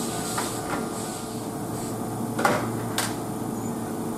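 Steady mechanical hum of an electric train's equipment at a station platform, with two sharp clicks about two and a half and three seconds in.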